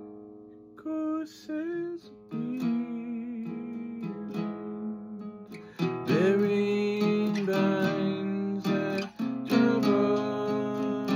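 Acoustic guitar music, plucked and strummed, with a sustained gliding melody line over it that grows fuller and louder about six seconds in.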